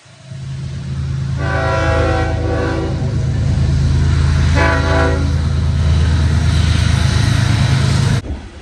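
Train locomotive running close by with a loud, steady low rumble, its horn sounding twice: a longer blast about a second and a half in and a shorter one around the middle. The sound cuts off abruptly near the end.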